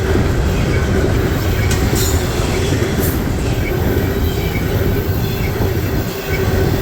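Freight train cars rolling past: a steady rumble of steel wheels on rail with a steady wheel squeal, and a couple of sharp clicks as wheels cross rail joints.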